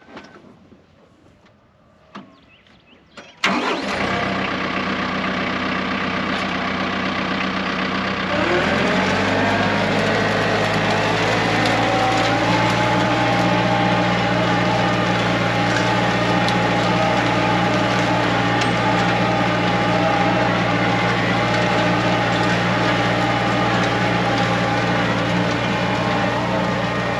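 TYM 4815 tractor's diesel engine starting up about three seconds in, then throttled up a few seconds later and running steadily at a higher speed.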